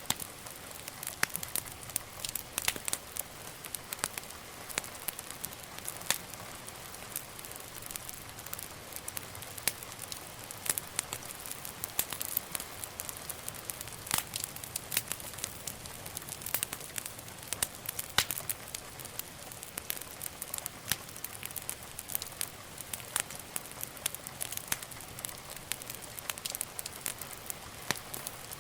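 Wood fire burning with a steady hiss and frequent irregular sharp crackles and pops.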